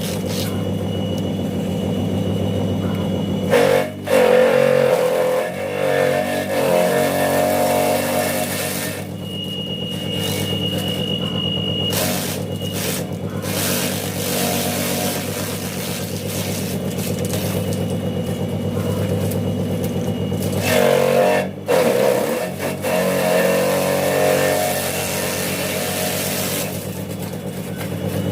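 Homemade grass chopper driven by a salvaged electric water-pump motor, running steadily with a hum. About 4 and 21 seconds in it gets louder and rougher and its pitch sags briefly, the motor loading up as material goes through the blades.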